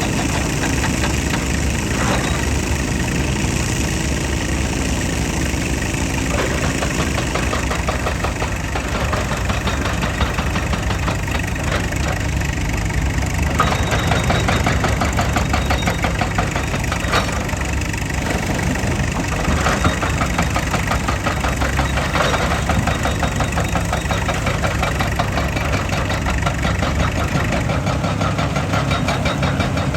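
Excavator's diesel engine running steadily with a fast, even clatter, with a few sharp metallic clanks along the way.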